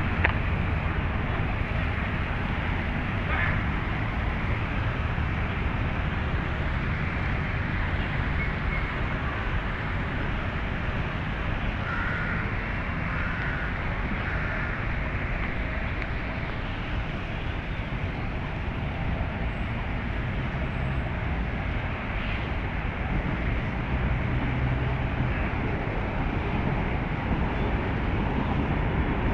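Steady hum of distant city traffic, with a few faint, short high notes about halfway through.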